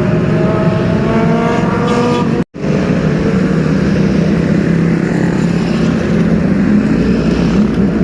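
Sport motorcycle engine accelerating, its pitch rising for about two seconds. After a split-second dropout, an engine runs steadily at low revs.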